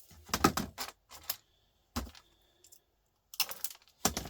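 Irregular sharp clicks and knocks of small hard scrap parts and hand tools, pliers and a bench vise, being worked while stripping brass and wire from a car electrical part; a cluster of rapid clicks about half a second in, single knocks around one and two seconds, and another cluster near the end.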